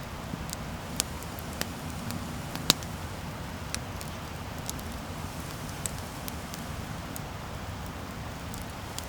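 Wood campfire burning: a steady low rumble of flames with sharp, irregular crackles and pops from the burning wood, the loudest pop about two and a half seconds in.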